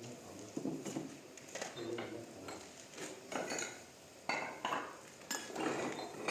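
Irregular clinks and knocks of hard objects: stone cladding pieces and hand tools being handled and set during stonework.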